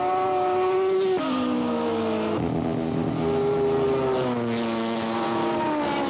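Racing motorcycle engines running hard at high revs, the pitch holding and then stepping down sharply several times.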